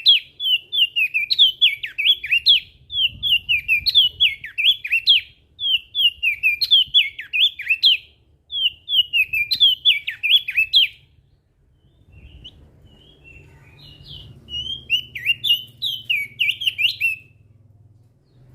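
Opior jambul (crested white-eye) singing: rapid, twittering phrases about a second long, repeated with short gaps. The song breaks off about two-thirds of the way through for a few faint notes, resumes briefly, and stops near the end.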